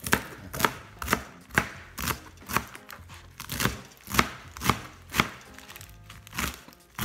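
Chef's knife chopping Ethiopian kale leaves on a plastic cutting board, a steady run of strokes about two a second.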